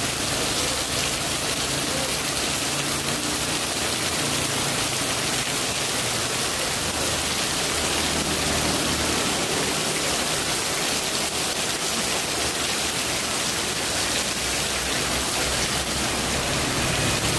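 Heavy rain falling: a steady, dense hiss that holds evenly throughout.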